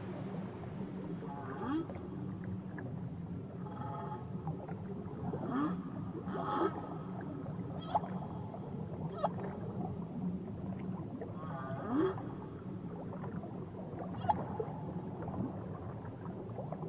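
Whale song: a string of short rising whoops and pitched calls, one every second or two, over a steady low hum.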